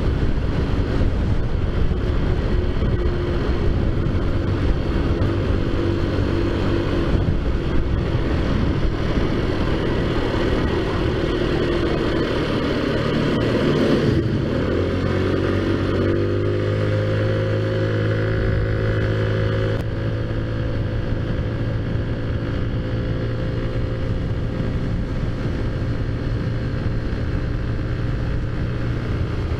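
Taotao Zummer 50cc four-stroke scooter engine, fitted with a big-bore kit and performance exhaust, running under way with wind rush. About halfway through the engine note drops as the scooter slows, then holds a steady lower tone with less rumble.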